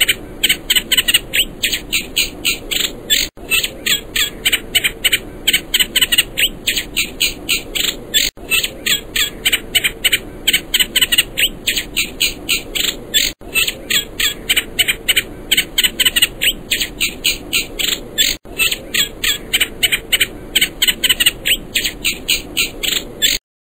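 Small animal making rapid, sharp, repeated calls, about three or four a second. The short recording is looped, restarting about every five seconds, and cuts off just before the end.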